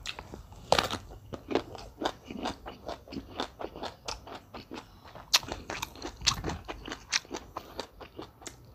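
Close-up crunchy chewing and biting of raw small round green eggplant eaten as lalapan, a quick run of crisp crunches several times a second, the sharpest about a second in and again around five seconds.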